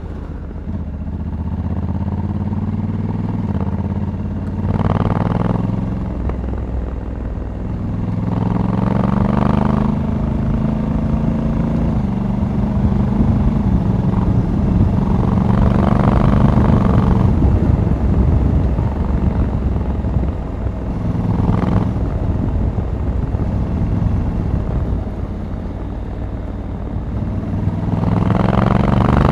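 Honda Africa Twin 1100 DCT's parallel-twin engine running under way, its note rising and falling several times as the bike speeds up and eases off.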